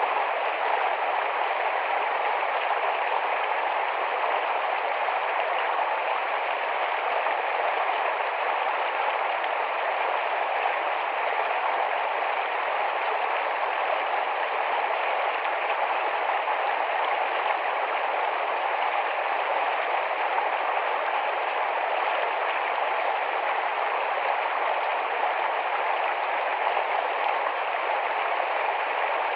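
Small, rapid forest stream rushing and splashing over rocks in a steady, unbroken flow.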